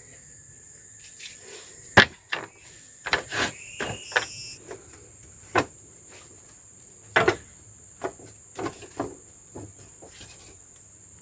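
Irregular knocks and clatters of camp work with wood, the loudest about two seconds in and again about seven seconds in, over a steady high-pitched insect drone.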